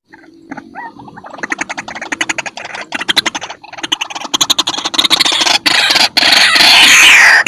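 White-breasted waterhen (ruak-ruak) calling: a fast series of repeated notes that speeds up and grows steadily louder, building into loud harsh calls near the end.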